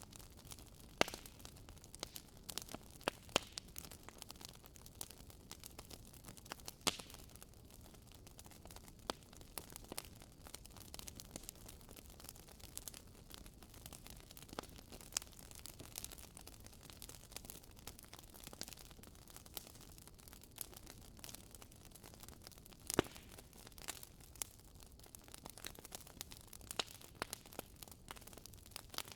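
Wood bonfire crackling: irregular sharp pops and snaps over a low steady hiss, with a few louder pops.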